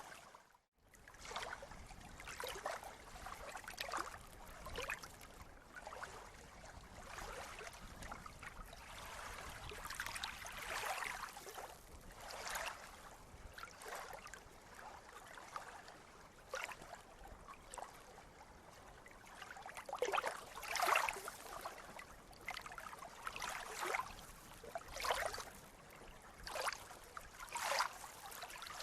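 Sea water lapping and splashing in small, irregular surges, with a brief dropout just after the start.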